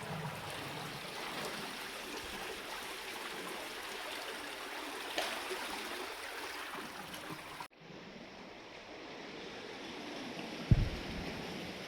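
Sea water rushing and washing among shoreline rocks, a steady churning noise. About two-thirds through it turns abruptly duller, and near the end there is a single sharp thump.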